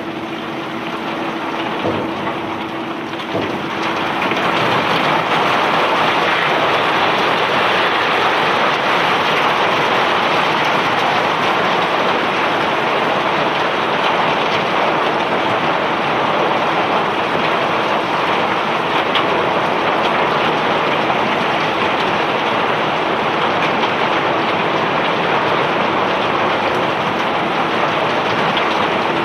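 Bulk cargo of rock or ore pouring off a self-unloading barge's discharge conveyor: a steady rushing hiss of stones streaming and landing, which swells to full flow about four seconds in.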